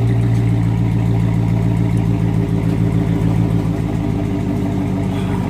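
Dodge 300's engine idling steadily through its newly modified exhaust, with a deep even note.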